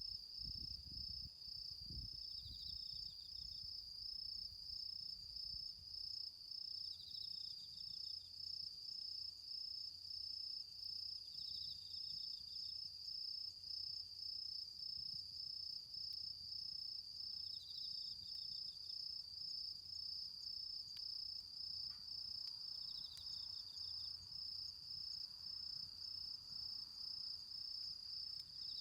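Autumn insects singing: one keeps up a steady, finely pulsed high trill, while another gives a short, slightly lower trill about every four to five seconds. A few low knocks sound in the first two seconds.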